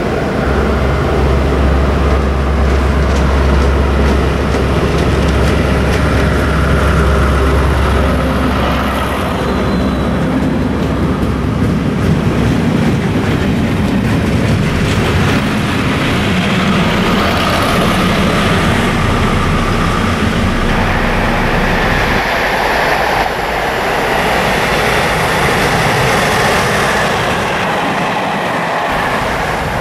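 Locomotive-hauled yellow Network Rail test train passing through a station at speed: a strong low hum from the approaching locomotive in the first several seconds, then the coaches' wheels running and rattling over the rails.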